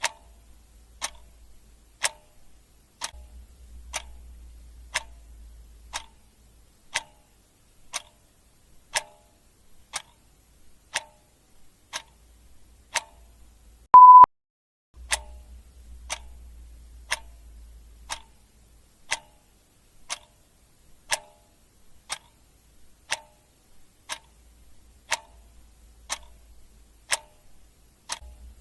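Clock ticking steadily, about two ticks a second in an alternating tick-tock. About halfway through, one short, loud, high beep sounds.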